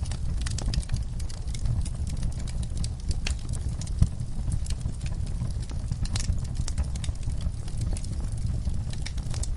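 Wood fire burning in a fireplace, crackling with irregular snaps over a steady low rumble of the flames; one louder pop about four seconds in.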